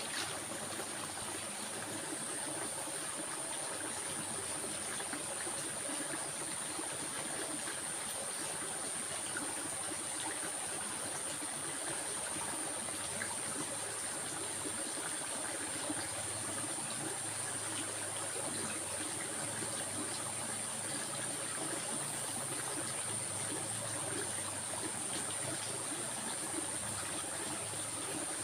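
A stream of water trickling and flowing steadily, with a thin, steady high-pitched whine above it.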